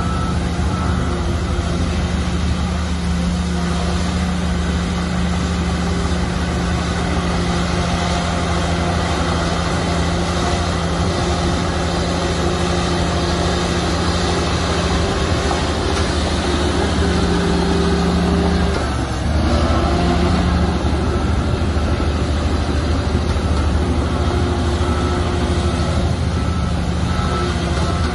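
Shantui bulldozer's diesel engine running steadily under load. About two-thirds of the way through the engine note dips briefly, then comes back a little louder.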